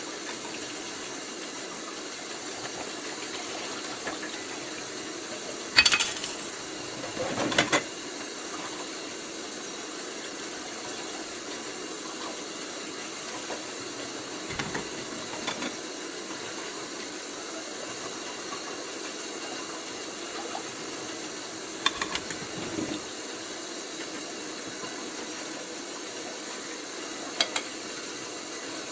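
Dishes being washed in a kitchen sink: a few scattered clinks and knocks of dishware, the loudest about six and seven and a half seconds in, over a steady hiss.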